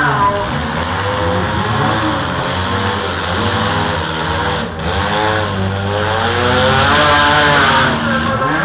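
Several small car engines revving hard at once, their pitches rising and falling over one another, as mini cars push and ram in a demolition derby.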